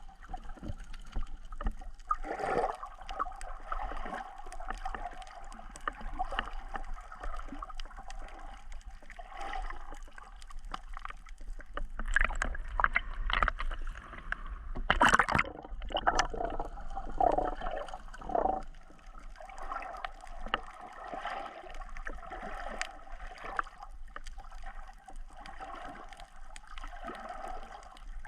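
Water sloshing and gurgling close to the microphone, irregular throughout, with a brief louder splash about halfway through.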